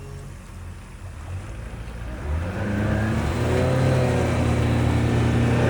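An engine speeds up about two seconds in, its low hum rising in pitch and growing louder, then runs steadily at the higher speed.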